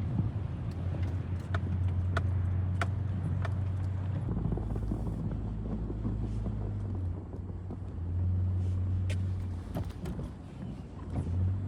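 Toyota 4x4's engine running with a steady low hum that swells and eases a few times, with scattered light clicks in the first few seconds.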